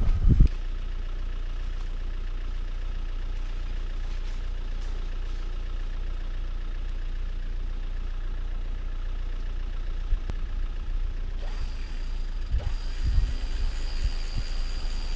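Land Rover Defender 90's engine idling steadily, with a few low knocks near the end.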